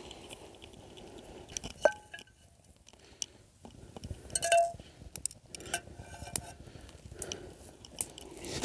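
Camp cookware and utensils being handled: scattered clicks and knocks, with two short ringing metallic clinks, about two seconds in and more loudly about four and a half seconds in.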